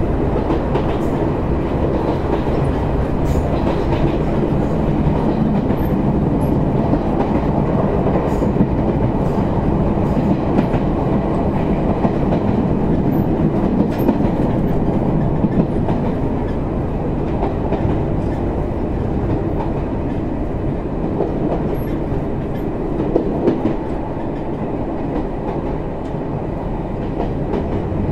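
Izuhakone Railway 7000-series electric train heard from inside the car while running between stations: a steady rumble of wheels on rails with occasional clicks from the track joints. It eases slightly in loudness near the end.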